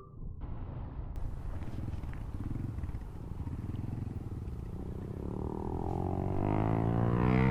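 Motorcycle engine running while riding, with wind rush over the microphone; from about two-thirds of the way through, its pitch rises steadily and it grows louder as the bike accelerates.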